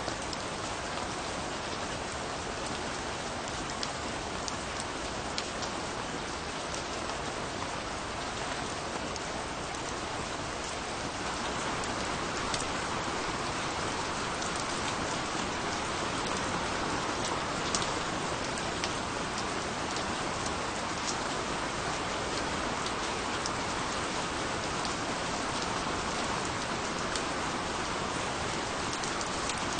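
Steady rain falling, with individual drops ticking on a surface through the hiss; it grows slightly heavier about a third of the way in.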